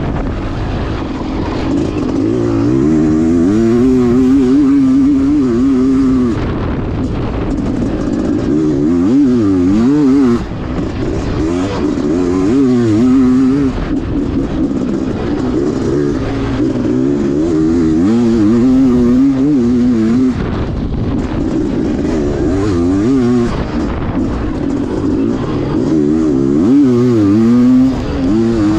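Honda CR500 single-cylinder two-stroke dirt bike engine under hard riding, the pitch rising and falling over and over as the throttle is opened and shut, with sudden short drops when it is rolled off.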